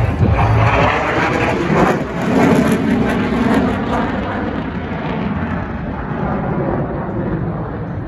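Military fighter jet's engine noise as it flies past, with a sweeping whoosh, then fading steadily as it moves away.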